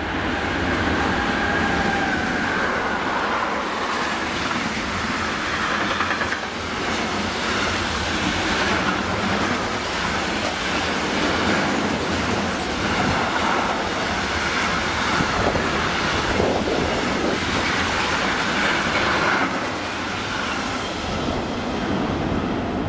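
Long freight train of container and tank-container wagons passing close at speed: a steady rumble of wagons with a rhythmic clatter of wheels over the rail joints, and a high wheel squeal that comes and goes.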